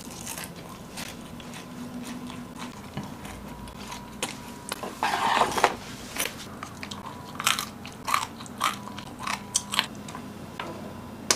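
Close-up eating sounds: biting and chewing air-fried chicken breast and mushrooms, with scattered short crunches and clicks and a denser stretch of chewing about halfway through.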